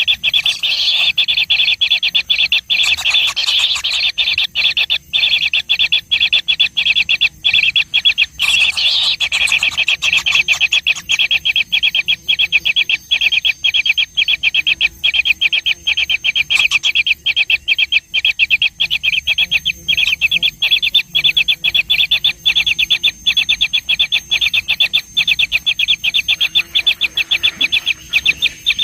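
Baby birds giving rapid, shrill begging calls, a dense, unbroken chatter of high chirps many times a second. The chicks are calling for food while being fed.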